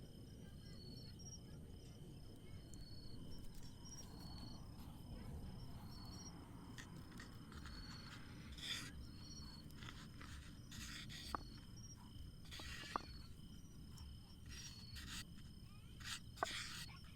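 Crickets chirping in a regular rhythm, a short high chirp about once a second, over a steady low outdoor rumble. In the second half come several short rustling noises and a few sharp clicks.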